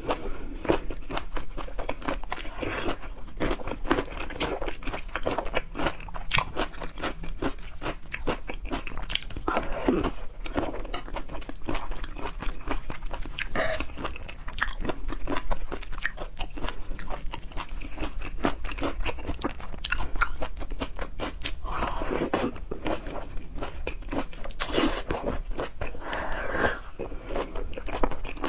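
A person chewing and biting seafood close to the microphone, with continuous crunching and crackling mouth sounds.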